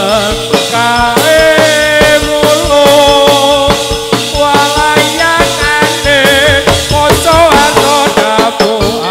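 Live Javanese folk music for a dance troupe: dense hand-drum strokes and rattling percussion under a wavering, ornamented melody, over a steady held drone.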